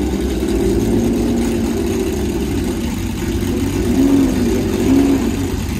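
Racing car engine running at idle, loud and steady, with two short throttle blips that rise and fall in pitch about four and five seconds in.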